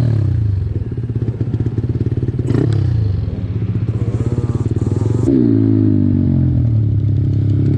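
Single-cylinder pit bike engine running while being ridden. The revs fall off just after the start, climb and ease again around the middle, and drop back once more a little past five seconds as the throttle is rolled on and off.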